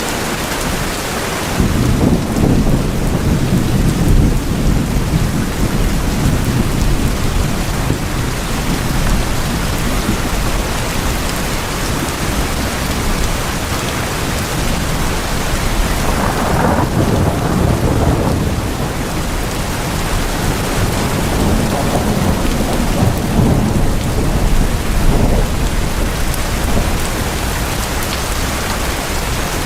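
Steady heavy rain drumming on tin roofs, with low rolls of thunder swelling up a few times.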